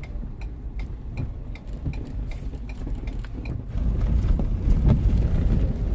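A vehicle driving, heard from inside the cabin: a steady low road and engine rumble that grows louder a little past halfway. Light, even ticking, about three ticks a second, runs over it for the first few seconds.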